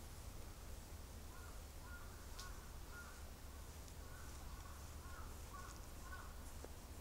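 Faint bird calls: a series of short calls in small runs, starting about a second in and stopping about six seconds in, over a steady low rumble.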